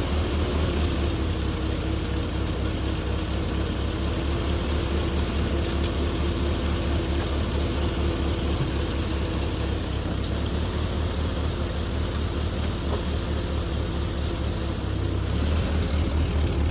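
Ford 2N tractor's four-cylinder flathead engine idling cold with a steady, even low pulse, picking up slightly about fifteen seconds in. The owner says it is not liking idling while cold.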